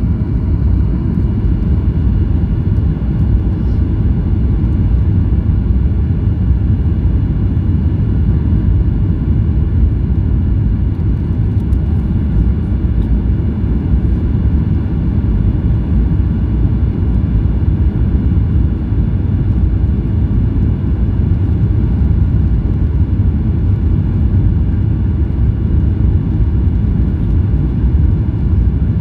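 Steady low rumble of a flydubai Boeing 737 jet airliner heard inside the cabin, engine and airflow noise with faint steady whining tones above it.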